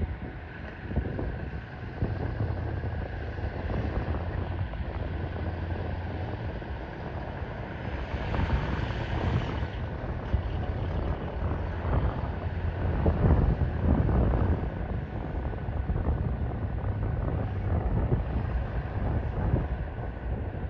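Steady low rumble of distant engine noise, like an aircraft passing, swelling a little about eight seconds in and again a few seconds later.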